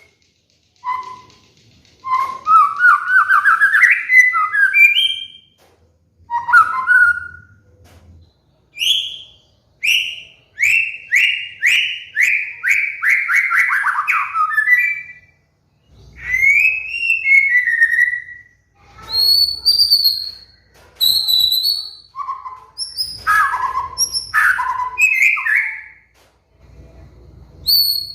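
White-rumped shama (murai batu) singing: a series of clear whistled phrases with rising and falling notes, separated by short pauses, including a fast run of repeated descending notes around the middle.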